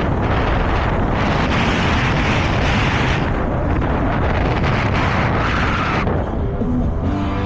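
Wind buffeting the microphone while riding, a steady loud rushing noise that eases about six seconds in.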